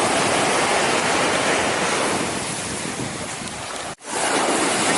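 Sea surf washing on a beach, mixed with wind buffeting the microphone; the sound drops out for an instant about four seconds in.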